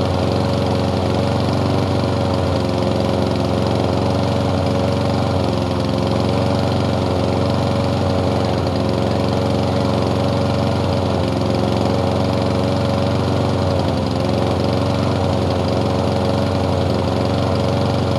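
Small lawn mower engine running steadily at one constant speed.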